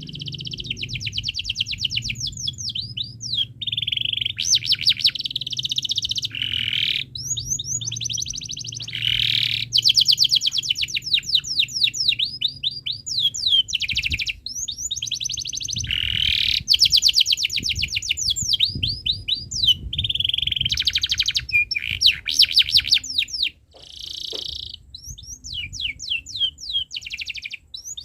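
Domestic canary singing a long, continuous song of fast trills and rolling runs of high chirps, with a short break about three-quarters of the way through.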